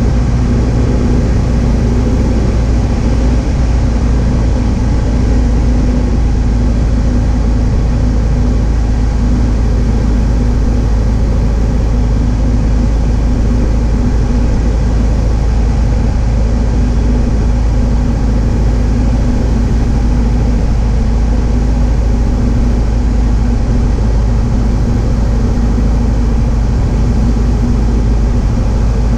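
Cessna 172H's six-cylinder Continental O-300 engine and propeller running at a steady power setting, a constant low drone with no change in pitch.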